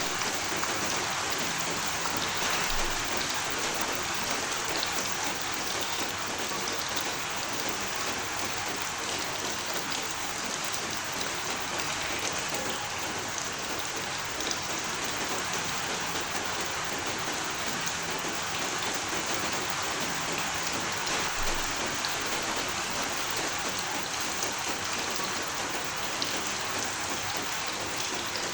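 Steady rain falling, an even hiss with scattered individual drop ticks and no letup.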